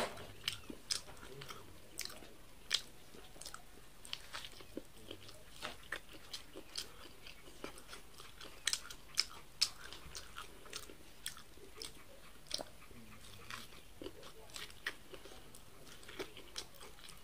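Mouth sounds of eating corn on the cob: kernels bitten off the cob and chewed close to the microphone, giving irregular sharp crunchy clicks.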